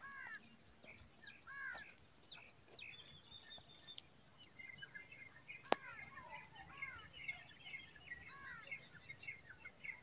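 Wild birds calling: a short arched call repeated several times, joined from about halfway by a busy twittering of smaller birds. One sharp click a little past halfway.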